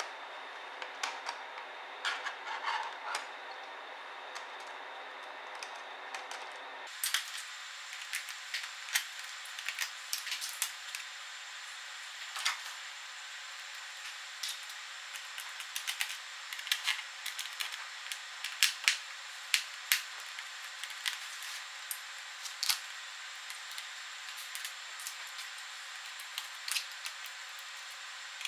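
Scattered sharp clicks and light taps of small screws, a screwdriver and plastic parts being handled while a ThinkPad T60p laptop is taken apart, over a steady faint hiss.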